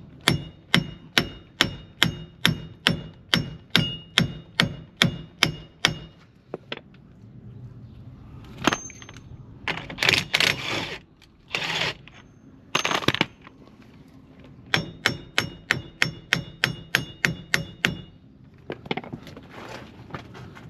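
Hammer blows on the end of a Ford Transit Custom's driveshaft, struck through the hub nut threaded back on to protect the threads, to drive the seized shaft out of the wheel hub: a fast run of ringing metal strikes, about three a second, for some six seconds. After a pause with a few short scraping noises comes a second quick run of strikes.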